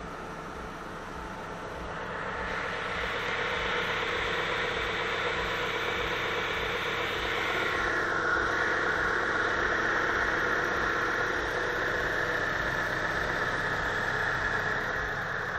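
Hyundai Sirius G4JP 2.0-litre four-cylinder engine running warm at a steady speed. A whirring hiss grows louder about two seconds in and shifts lower around eight seconds.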